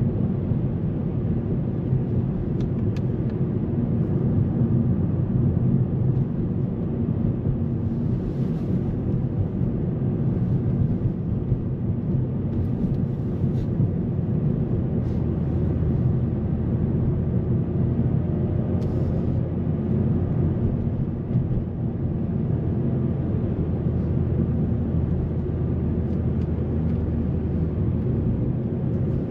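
Cabin sound of a 2008 Mazda 3 2.0 Sport's four-cylinder petrol engine and tyres while cruising at steady speed, a steady low drone with a few faint ticks and rattles.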